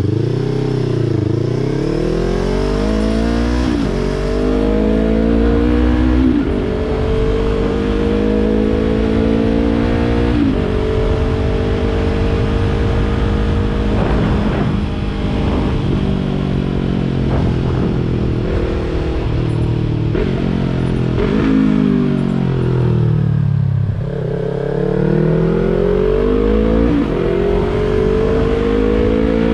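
Yamaha YZF-R3's parallel-twin engine through a Yoshimura exhaust, pulling up through the gears with a quick drop in revs at each upshift, then holding a steady cruise. About three-quarters through the revs fall away as the bike slows, then it accelerates again with two more upshifts.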